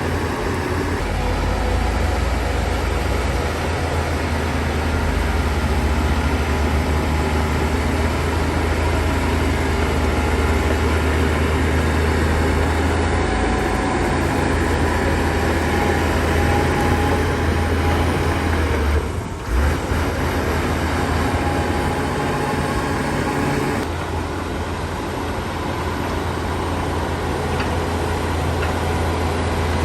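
Shantui DH17 C2 bulldozer's heavy diesel engine running steadily under load, with a dense low rumble. The sound dips briefly about two-thirds of the way through.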